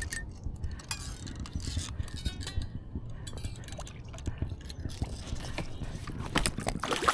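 Water dripping and lapping at a kayak, with scattered small clicks and knocks from the fishing gear.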